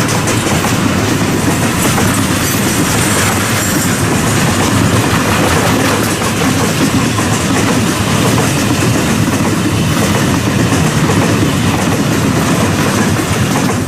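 Freight train wagons rolling past close by: a loud, steady rumble and hiss of steel wheels on the rails.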